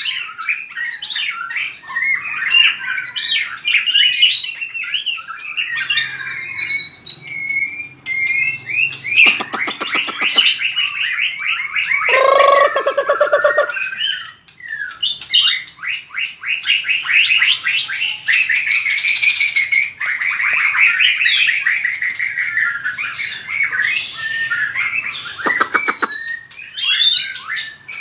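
White-rumped shama singing a fast, varied competition song of whistled phrases and trills. A dry rattle of rapid clicks comes twice, about ten seconds in and near the end, and a lower, harsher phrase follows the first rattle.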